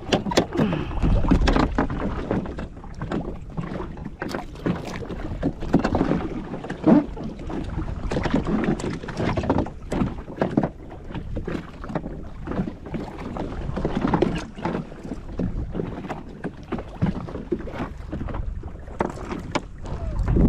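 Water slapping and splashing against the hull of a drifting jet ski, with low gusts of wind on the microphone and scattered knocks and clicks throughout.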